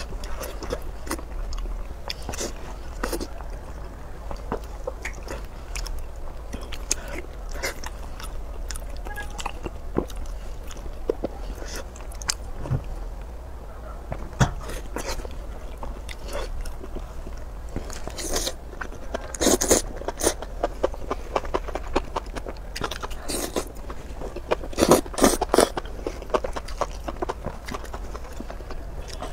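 Close-miked biting and chewing of enoki mushrooms in red chili sauce wrapped in green leaves: wet crunches and mouth clicks throughout, with louder clusters of bites about two-thirds of the way in and again near the end.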